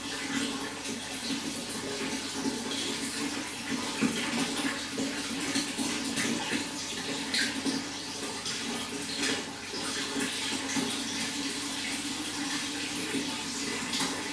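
Running water flowing and splashing steadily, with a few brief louder splashes.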